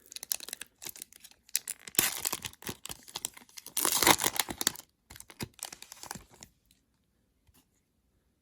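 Plastic wrapper of a trading card pack being torn open and crinkled in irregular bursts, then stopping.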